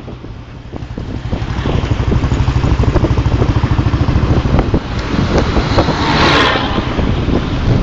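Royal Enfield single-cylinder motorcycle engine running under way with a steady, fast thump, getting louder over the first couple of seconds. Wind buffets the microphone briefly about six seconds in.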